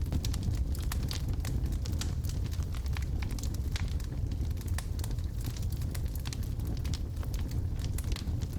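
Wood logs burning in a fireplace, with a steady low rumble of flames and frequent small, sharp crackles and pops.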